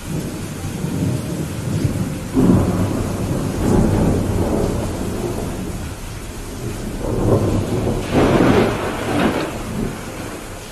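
Steady rain with rolling thunder: a low rumble breaks in abruptly about two seconds in, and a second, louder peal builds and peaks near the end.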